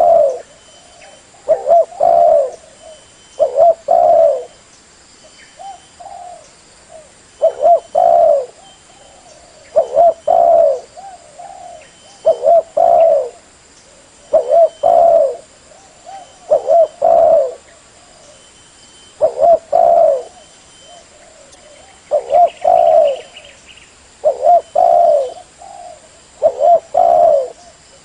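Spotted dove (tekukur) cooing: loud phrases of two or three low coos, repeated about every two seconds.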